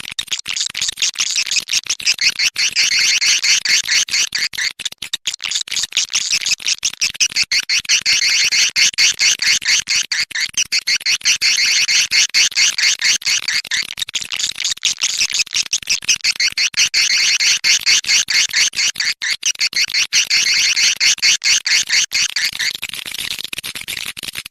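Recorded swiftlet calls used as a lure sound for swiftlet bird houses: dense, rapid, high chittering trills that swell into louder bouts about every four to five seconds.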